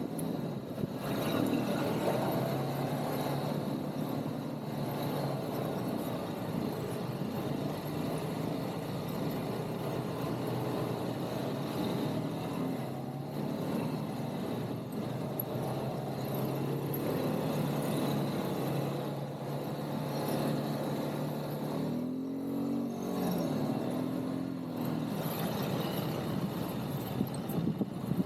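ATV (quad bike) engine running as it is ridden, a steady drone that dips and rises in pitch a few times near the end.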